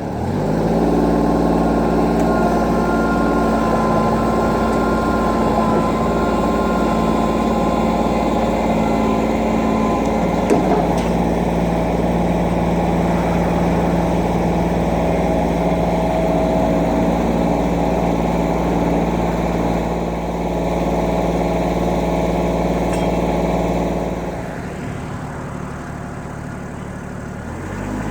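2010 Kubota L3700SU tractor's 37.4 hp diesel engine running steadily at raised revs after speeding up at the start. About 24 seconds in it drops to a lower, quieter speed, then revs up again near the end.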